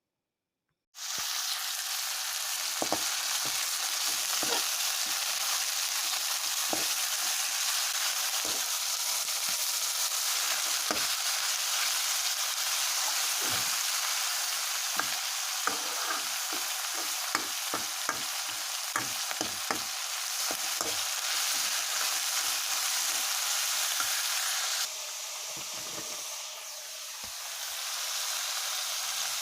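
Kalij pheasant meat frying in hot oil in a pan, sizzling loudly from an abrupt start about a second in. Short knocks and scrapes of a spatula against the pan come as it is stirred, and the sizzle eases a little near the end.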